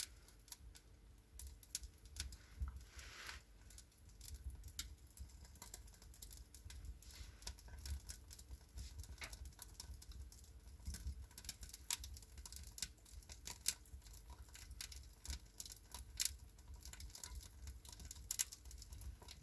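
Wood fire crackling in a fireplace as freshly lit kindling and bark catch: many small irregular pops and snaps, getting louder as it takes hold.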